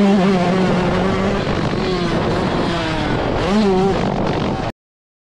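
A 2020 Yamaha YZ125's single-cylinder two-stroke engine under way on a dirt track. It holds a steady pitch, eases off, then revs up again about three and a half seconds in. The sound cuts off abruptly near the end.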